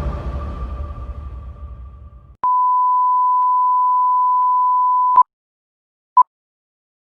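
Background music fading out, then a steady electronic beep tone held for nearly three seconds, followed about a second later by one short beep at the same pitch.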